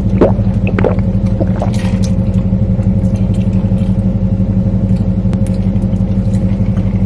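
Dodge Hellcat's supercharged 6.2-litre V8 running at a steady idle, heard from inside the cabin, with a few brief sounds in the first second.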